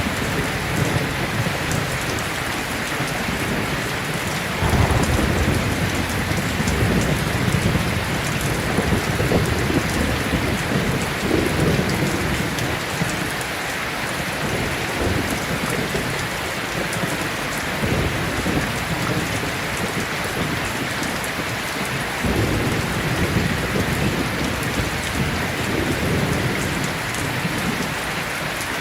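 Steady heavy rain with thunder rolling low beneath it, a rumble that comes in suddenly about five seconds in and swells again past the twenty-second mark.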